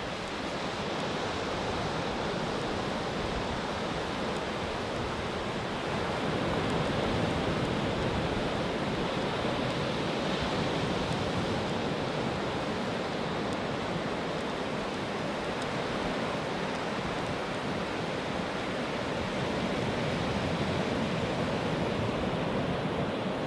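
Ocean surf: a steady wash of breaking waves that swells slightly a few times.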